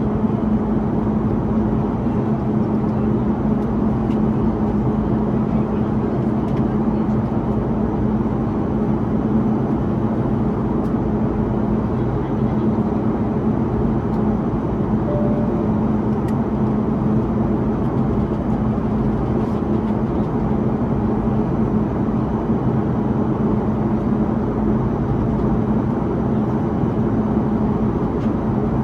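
Steady cabin noise inside an Airbus A330-300 climbing toward cruise: the drone of its Rolls-Royce Trent 700 engines and rushing airflow, with a steady low hum.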